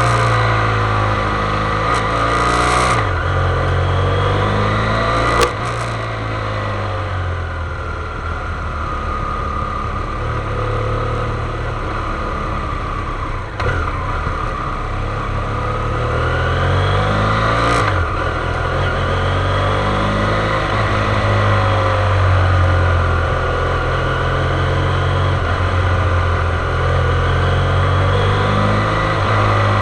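Motorcycle engine running throughout, its note rising and falling with the throttle and dropping or jumping suddenly a few times, at about 3, 13 and 18 seconds in.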